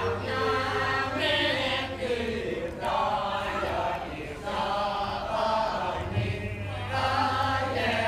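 Voices chanting in long held notes, phrase after phrase with short breaths between, over a low steady hum.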